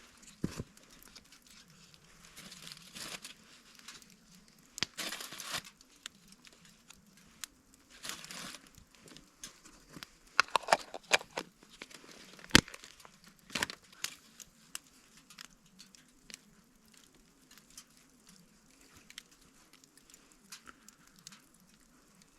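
Irregular rustling and crinkling with scattered sharp clicks and knocks, busiest in the first half: things being handled and moved about.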